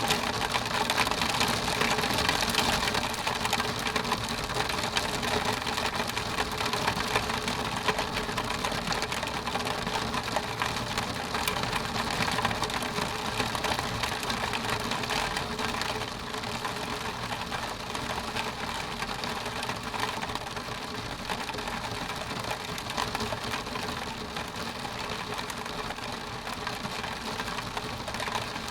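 Rain pattering steadily on a window pane, a dense run of small drop ticks over a wash of rain noise. It gets slightly quieter about halfway through.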